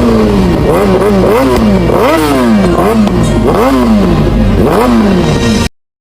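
Honda Hornet motorcycle with an Akrapovic aftermarket exhaust being revved repeatedly, about six throttle blips that each rise quickly in pitch and fall back. The sound cuts off suddenly near the end.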